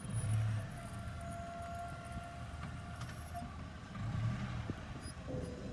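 Hyundai Accent car running and rolling with a steady low rumble, with a faint thin high squeal over the first few seconds and again briefly near the end.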